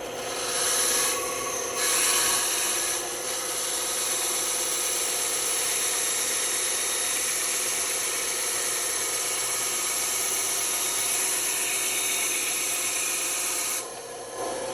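Band saw running with its blade cutting through wood: a steady motor hum under a loud rasping hiss of the cut, which eases briefly twice in the first few seconds and stops about 14 seconds in while the motor runs on.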